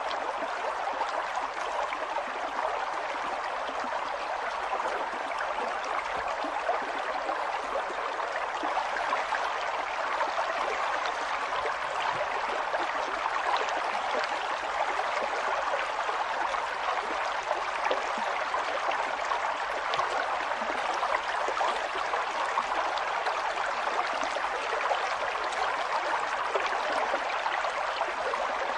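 River water flowing and burbling over rocks, a steady rush with many small splashes.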